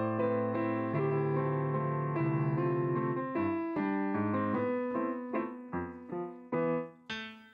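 Piano being played: full chords for the first few seconds, then single struck notes that ring and die away, spaced further apart and getting quieter toward the end.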